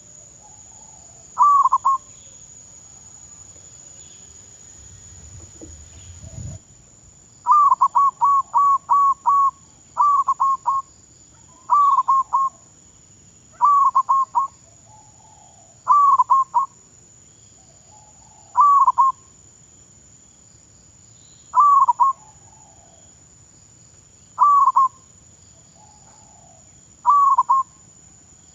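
Zebra dove (perkutut) cooing: short rolling phrases of a few quick notes, repeated every two to three seconds, with one longer run of notes about eight seconds in.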